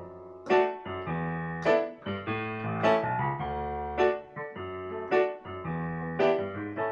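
Piano accompaniment playing the introduction to a children's song: bass notes and chords at a steady, bouncy beat, with no voice yet.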